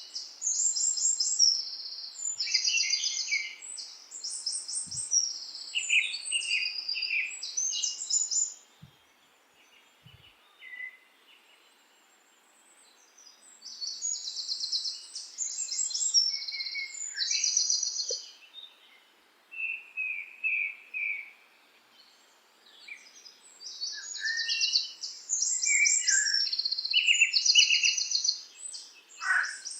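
Songbirds singing in long phrases of quick trills and chirps, with pauses of a few seconds between phrases, over a faint outdoor background hiss.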